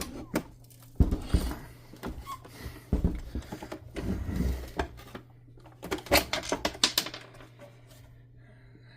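Irregular clicks, taps and knocks of hard plastic housing parts and screws being handled as a canister vacuum cleaner is taken apart, coming in clusters with short pauses between.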